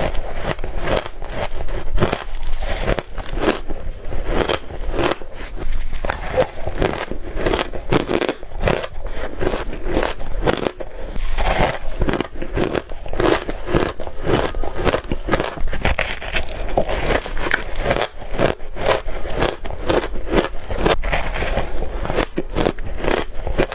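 A person biting and chewing crushed frozen ice bars: a continuous run of crisp crunches and crackles, bite after bite.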